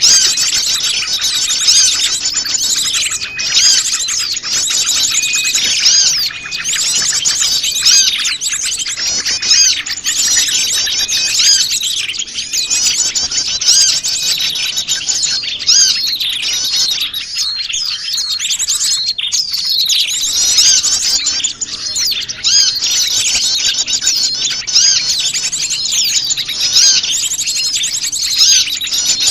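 A dense, noisy chorus of many small wild songbirds chirping and twittering over one another without a break. It is a mixed small-bird lure call, played to draw wild small birds in close.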